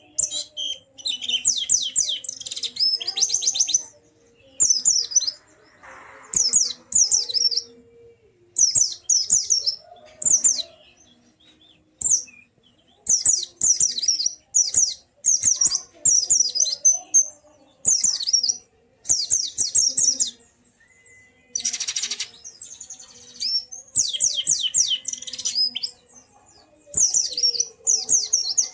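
White-eye (pleci) singing: short, quick phrases of high, rapidly falling notes, repeated over and over with brief gaps between them.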